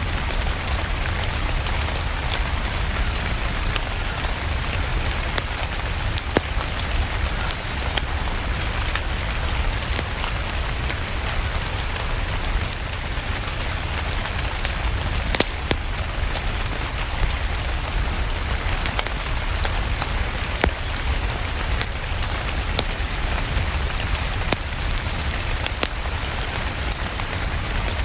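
Steady rain hissing evenly alongside a crackling fireplace fire, with scattered sharp pops over a low rumble.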